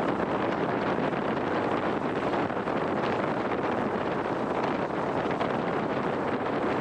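Steady rush of a jet boat under way, with wind buffeting the microphone.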